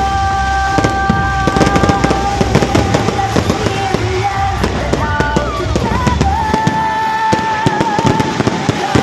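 Fireworks going off in rapid, dense bangs and crackling, over loud music with long held melody notes.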